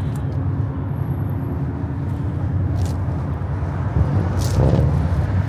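Chevrolet Chevelle's engine idling steadily, with a low, even exhaust note.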